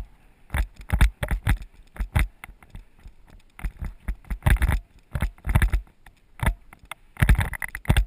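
Bicycle jolting down a rough descent: irregular knocks and rattles in quick clusters, picked up through a GoPro Hero 2 camera's housing.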